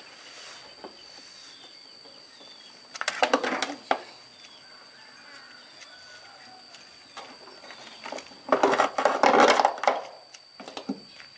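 Two bouts of clattering knocks, one about three seconds in and a longer one near the end, over a steady high-pitched whine.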